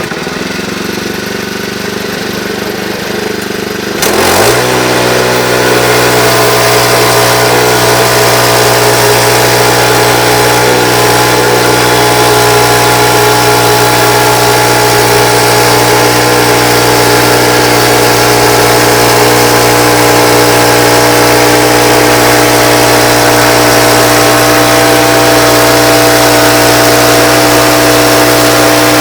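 An engine running after a start, then brought up quickly to a higher, steady working speed about four seconds in and held there.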